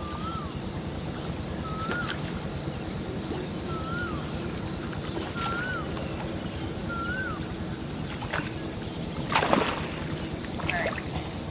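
A bird repeats a short whistled note, rising then dropping, five times at about two-second intervals over a steady high drone. About nine and a half seconds in comes a sudden splash of water, the loudest sound here.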